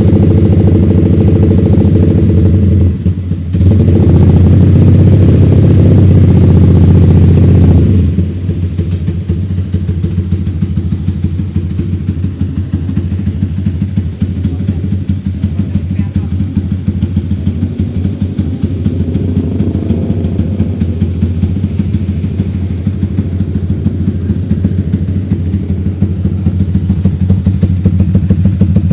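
Yamaha MX King's single-cylinder four-stroke engine running through an aftermarket racing exhaust. It is very loud for the first eight seconds, with a brief dip about three seconds in, then settles to a lower, fast-pulsing exhaust note.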